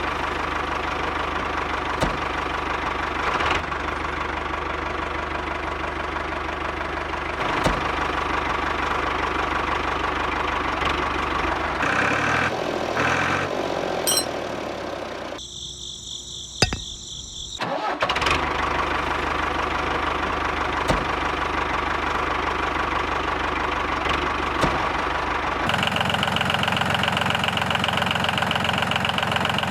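Small petrol engine of a miniature water pump running steadily. About halfway through it dies away and another short sound cuts in, then the engine runs again, its note changing a few seconds before the end.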